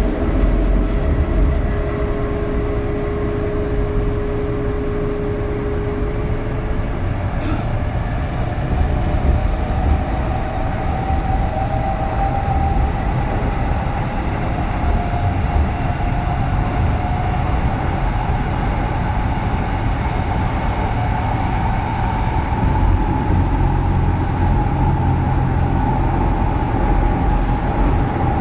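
Kintetsu 3200 series train heard from inside motor car Mo 3205: its early Mitsubishi GTO VVVF inverter and traction motors sing over the steady rumble of wheels on rail. A steady tone fades out about six seconds in, and a higher tone rises slowly through the rest.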